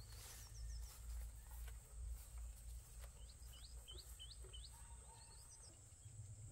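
Rural field ambience: a small bird calls in short, quickly rising chirps, a few near the start and a run of about five around the middle, over a steady high insect drone and a low rumble.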